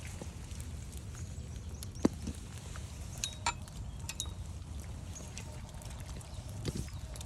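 Footsteps along a wet forest trail, with a sharp knock about two seconds in and a smaller one near the end, over a steady low rumble. A few short bird chirps come a little past the middle.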